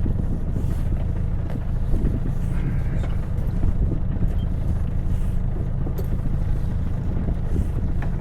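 Sailing yacht's inboard engine running steadily with a low drone, under a rush of wind and water noise.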